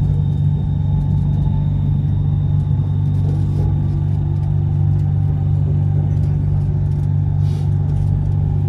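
Bangkok BTS Skytrain electric train heard from inside the carriage as it pulls out of a station and gathers speed: a steady low rumble with a faint steady hum above it.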